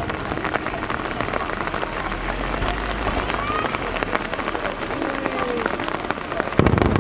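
Steady rain pattering, with many small drop clicks. Near the end a single deep firework burst booms.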